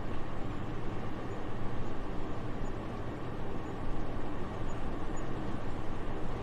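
Soft, steady wind: an even airy rush, heaviest in the low end, that swells and eases gently.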